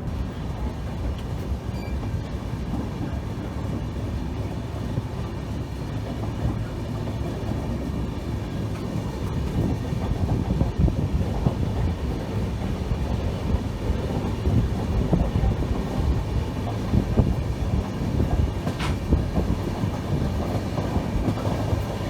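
Train running on the rails: a steady low rumble with a dense rattling clatter of wheels and carriage, getting a little louder about halfway through.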